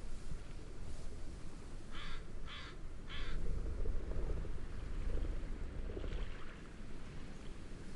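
A bird gives three harsh calls in quick succession over a steady low rush of wind and waves.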